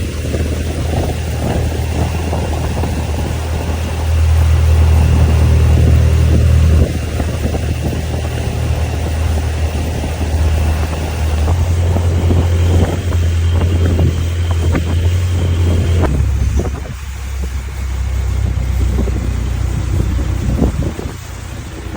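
An engine running steadily, its speed stepping up and down a few times, with wind buffeting the microphone.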